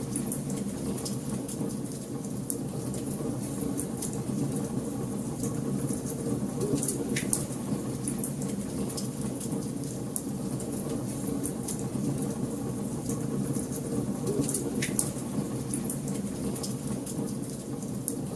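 Wood fire burning in a fireplace: a steady low rush of flame with scattered crackles and pops throughout, a few of them louder.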